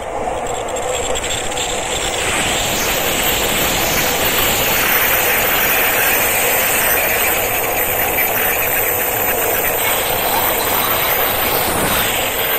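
JR East Chuo Line E233-series electric commuter train running past along the platform. A steady rumble and rattle of wheels on rail builds over the first couple of seconds, then holds loud and even.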